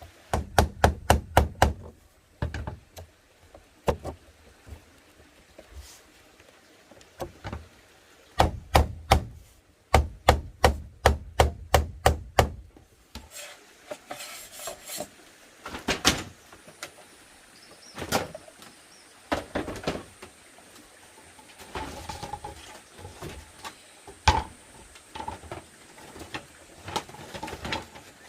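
Rapid runs of quick, evenly spaced blows on wood or bamboo, about five or six a second, three runs in the first half, followed by scattered single knocks.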